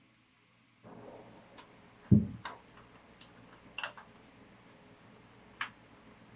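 Light clicks and taps of tools and fittings being handled during plumbing work, with one heavy low thump about two seconds in.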